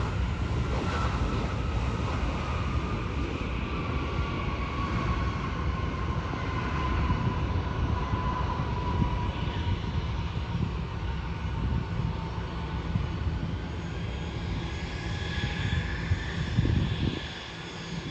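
Jet airliner passing: engine rumble with a whine that falls slowly in pitch, the rumble dropping away suddenly near the end.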